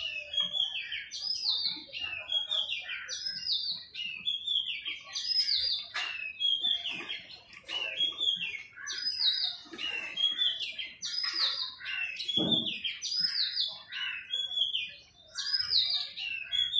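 Small birds at a feeder chirping, short high chirp phrases repeated about once a second, several birds overlapping.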